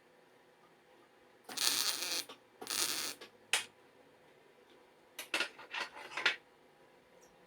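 Hand work on metal: two longer scraping strokes and a sharp knock, then a quick run of short scrapes and clicks.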